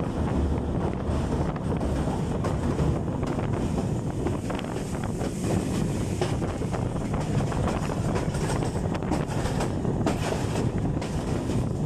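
Allama Iqbal Express passenger train running at speed: a steady rumble of wheels on rail, with wind buffeting the microphone.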